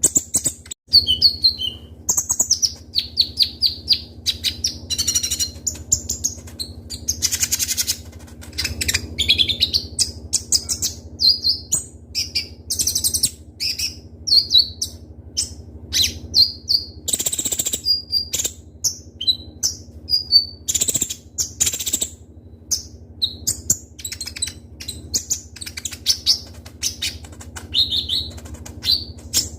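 Kolibri ninja (konin), a sunbird, singing continuously: a fast, sharp run of high chirps, trills and short rising and falling whistles with brief gaps. A steady low hum sits under the song.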